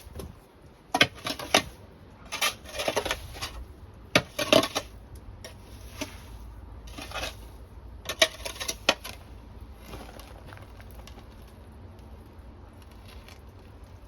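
Hard objects clattering, clinking and scraping as they are handled, in several short bursts, fading to faint scrapes after about nine seconds.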